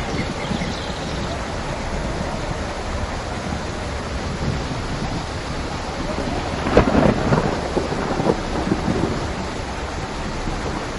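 Steady heavy rain falling, with a thunderclap a little past halfway that crackles and rumbles for a second or two.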